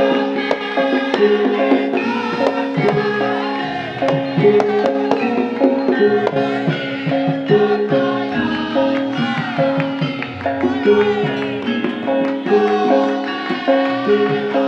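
Javanese gamelan ensemble playing a gending: steady ringing metallophone notes over drum strokes, with a gliding melodic line about halfway through.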